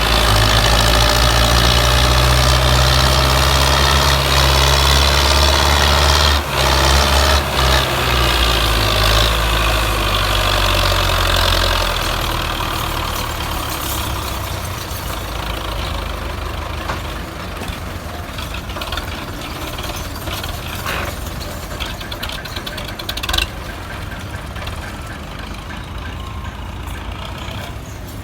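Belarus 510 tractor's four-cylinder diesel engine running hard, pulling a heavy loaded trailer. It is loud for the first dozen seconds, then fades steadily as it moves away, with a sharp knock about six seconds in and another near the end.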